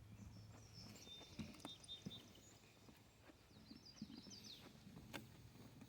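Faint footsteps knocking on a wooden boardwalk at a walking pace, with a small bird chirping faintly in short high series.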